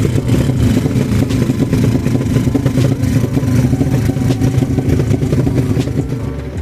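Motorcycle engine running loud and hard at a steady high pitch, with rough crackling over the engine note; it cuts off abruptly at the end.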